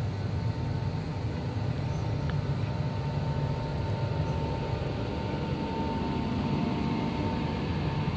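InterCity 225 train, a Class 91 electric locomotive with Mk4 coaches, running past the platform: a steady rumble of wheels on rail with a faint steady whine over it.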